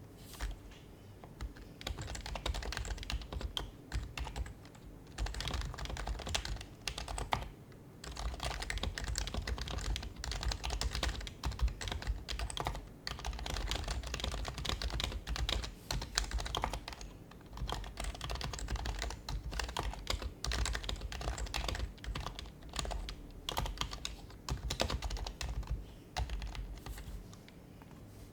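Typing on a Happy Hacking Keyboard Professional HYBRID Type-S, its silenced Topre keys giving soft, muted clicks in quick bursts with short pauses between them.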